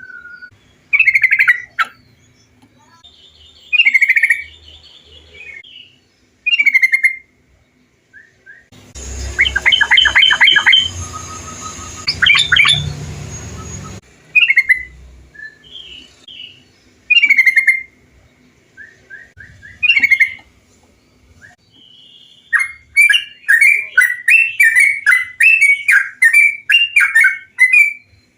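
Yellow-vented bulbul (trucukan) singing: short bubbling phrases every two or three seconds, a louder jumble of chattering notes over a hiss in the middle, and a fast run of repeated notes near the end.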